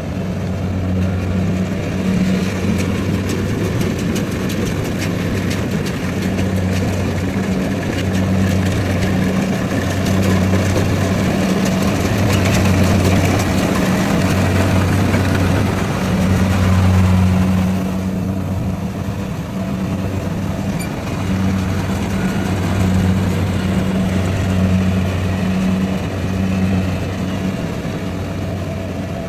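Rice combine harvester running, a steady, pulsing engine hum under a rougher machinery noise. The noise grows louder through the middle and drops off suddenly about eighteen seconds in.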